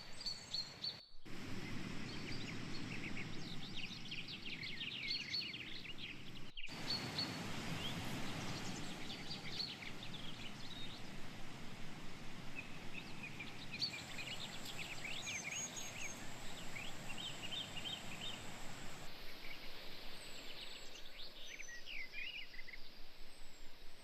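Small birds chirping and calling over a steady outdoor background noise, with two brief total drop-outs in the first seven seconds where the audio is cut.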